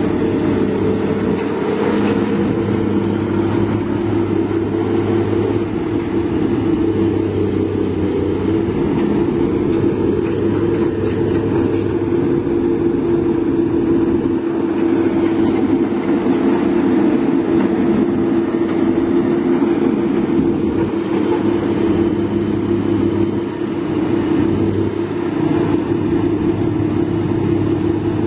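Large diesel engine running steadily at an even speed, a deep continuous drone.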